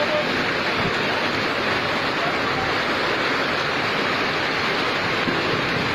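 Heavy rain pouring down in a steady, even rush of noise.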